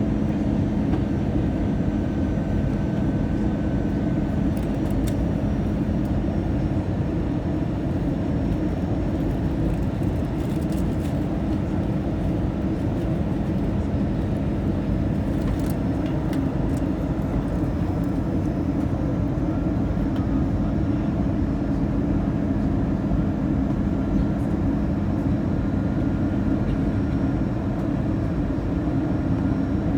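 Steady in-flight cabin noise of an Airbus A320-214: the rumble of its CFM56 engines and of air rushing past the fuselage, with a steady low hum and a few faint ticks.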